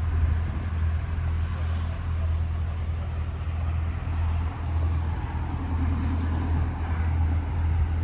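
A car engine idling steadily, a low, even drone.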